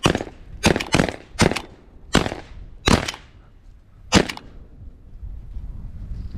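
A rapid volley of about seven shotgun shots, the first four within a second and a half and then more spread out, fired at pigeons flushing from a grain bin. Each shot is a sharp crack with a short echo.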